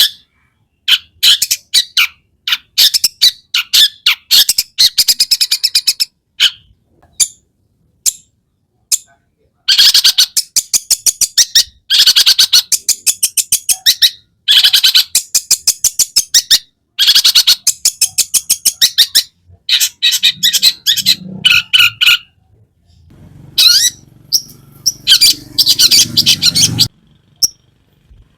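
Long-tailed shrike (cendet) in full song: phrases of rapid, scratchy repeated notes, some with quick rising glides, broken by short pauses, with other birds' sounds worked in as mimicry. A low rumble sits underneath for several seconds in the last third.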